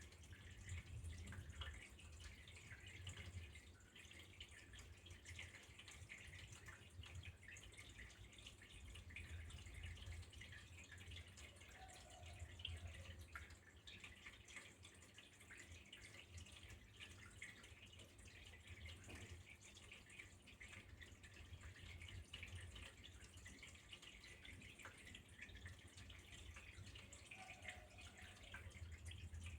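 Faint, steady trickle of flowing water with fine dripping, over a low hum.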